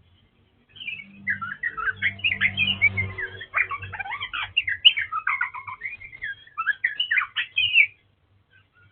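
Oriental magpie-robin of the all-black 'kacer wulung' form singing a rapid, varied song of quick whistled and chattering notes. It starts about a second in, runs for about seven seconds and stops near the end.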